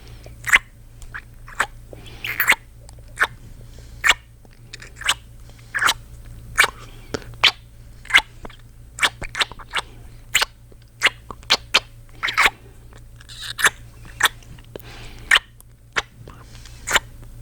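Close-miked ASMR kissing sounds: a man's lips making wet smooching smacks, short and sharp, about one or two a second at an uneven pace.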